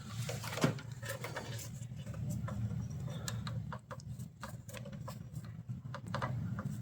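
Faint scattered clicks and light taps over a low steady hum.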